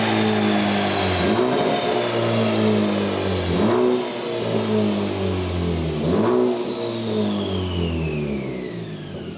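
Honda Civic Type R FL5's 2.0-litre turbocharged four-cylinder (K20C1) running through a Milltek valved exhaust under hard acceleration. Its note drops sharply and climbs again three times, like gear changes, then fades near the end.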